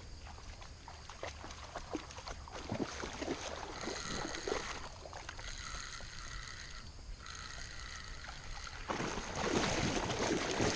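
Creek water running, with scattered small clicks and rustles of handling close to the microphone. About nine seconds in, a louder, rougher rush of noise sets in.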